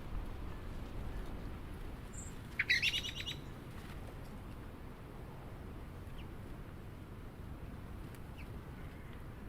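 A bird at a backyard feeder gives a quick run of chattering call notes about three seconds in, with a few faint high chips around it, over a steady low background rumble.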